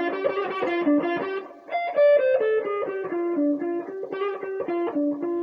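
Electric guitar playing a fast single-note blues lick, two quick runs of notes that fall in pitch, with a slide up to the flat fifth and back down to the fourth, minor third and root.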